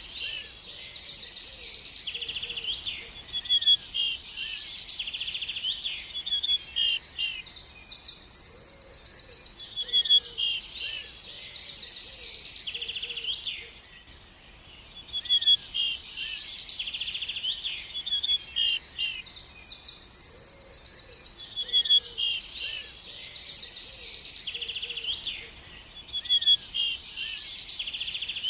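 Songbird singing: repeated phrases of high, rapid trills and sharp chirps, with a short pause in the middle.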